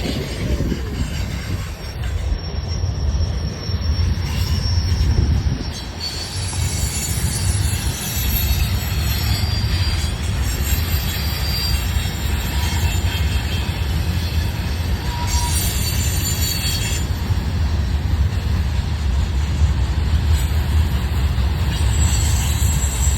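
Train running through a curve at speed, with a steady low rumble and high-pitched wheel squeal from the flanges rubbing the rails, setting in about six seconds in.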